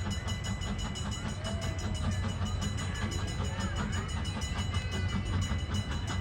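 Two-foot narrow-gauge train running: a steady low rumble with a dense, even rattle of wheels and cars, and a few steady high tones over it.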